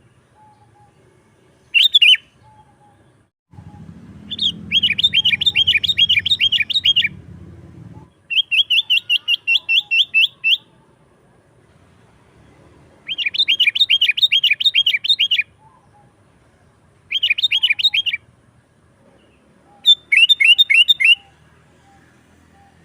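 Sooty-headed bulbul singing in six phrases of fast, repeated chattering notes. Each phrase lasts from under a second to about two and a half seconds, with short pauses between them.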